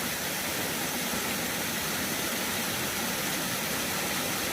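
Steady rushing of a waterfall, an even wash of water noise that doesn't change.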